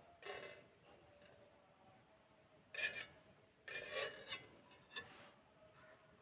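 Fired clay pottery being crushed, giving gritty, scraping crunches: a short one at the start, a sharp one near the middle, a longer grinding crunch a second later and a small one after that.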